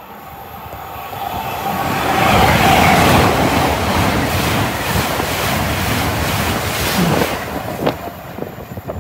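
LNER Azuma passing through the station at speed, a loud rush of wheels and air that builds over the first two seconds, peaks about two to three seconds in and holds, then fades near the end.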